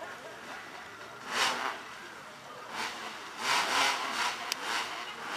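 Drag-racing engines revving in short rasping bursts at the starting line: one burst about a second in, then a cluster of revs in the second half, with a sharp click among them.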